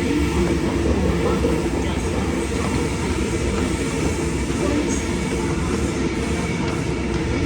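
Electric train running by with a steady, loud rumble and a low hum.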